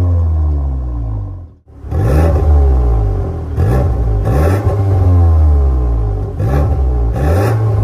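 VW Golf R Mk8.5's turbocharged 2.0-litre four-cylinder (EA888 evo4) revved repeatedly through an aftermarket MS-R valved exhaust, the revs rising and falling with each blip. There is a brief dropout about one and a half seconds in.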